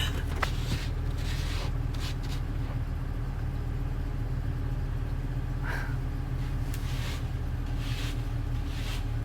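Box truck engine idling steadily, with a few faint taps and knocks over it.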